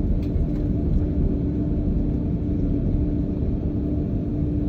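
Jet airliner cabin noise during takeoff: a steady low rumble from the engines and airflow, with a constant hum running through it.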